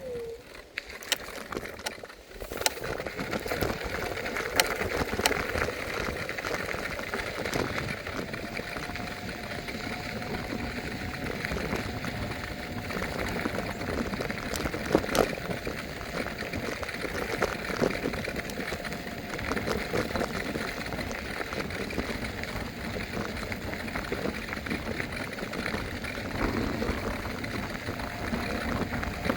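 Electric scooter riding over pavement: steady tyre and wind noise with a faint steady whine and scattered sharp knocks from bumps. The sound is quieter for the first two seconds or so.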